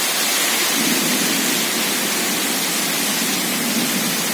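Heavy rain pouring down in a windstorm: a loud, steady rushing hiss.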